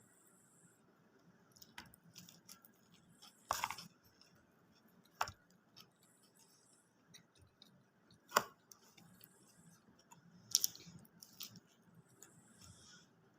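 Close-miked eating: quiet chewing and mouth sounds, broken by about six sharp clicks or crunches.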